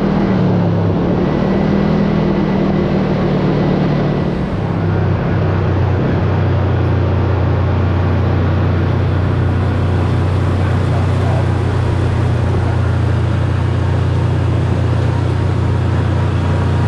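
Side-by-side UTV's engine running while driving, with tyre and wind noise; the engine note drops about four to five seconds in and then holds steady.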